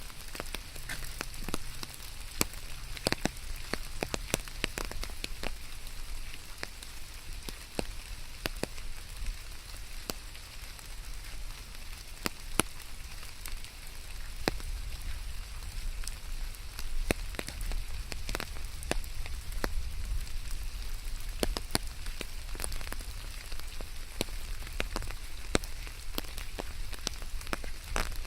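Steady rain falling, with many sharp individual drops pattering close by over an even hiss and a low rumble underneath.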